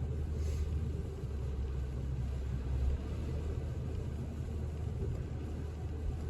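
Steady low road and engine rumble heard inside a moving car's cabin at about 30 mph.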